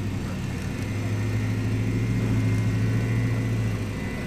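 Jeep engine running steadily at low revs while crawling a rock obstacle, its hum rising a little through the middle and easing off near the end.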